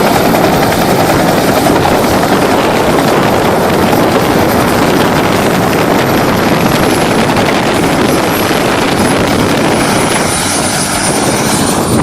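Loud, steady aircraft noise of engine and airflow, with a faint high whine drifting slightly lower in pitch.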